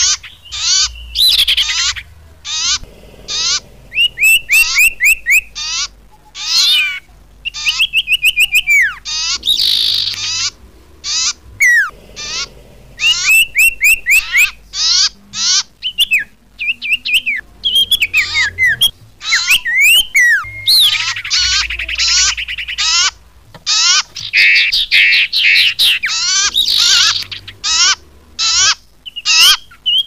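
Common iora (cipow) calls and song from a bird-lure recording: a fast string of clear whistled chirps, rising and falling notes and quick trills. The phrases start and stop abruptly, with brief gaps between them.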